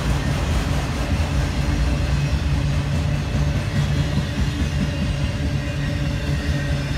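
A train passing with a steady low rumble.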